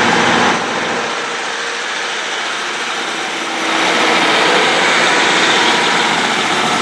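Class 150 diesel multiple unit moving through the station, its underfloor diesel engines running with a steady noisy rumble that swells louder about halfway through.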